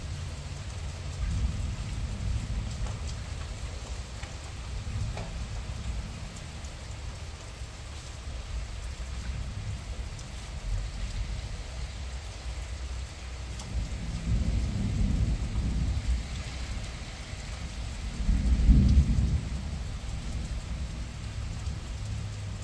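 Rain falling, a steady wash of noise recorded by a phone's microphone out in the open. Two deep rumbling swells come in the second half; the later one is the loudest.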